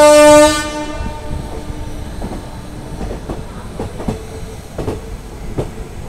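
A train horn blaring on one steady note, cutting off about half a second in. Then the train's steady running noise with the wheels clacking over rail joints and points, a knock about every second.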